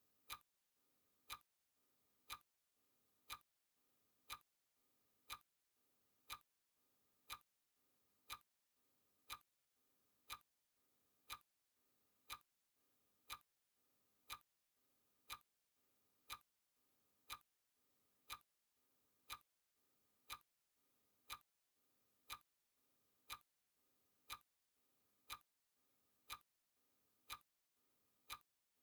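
Clock-style ticking sound effect of a countdown timer: one short, crisp tick every second, evenly spaced and quiet.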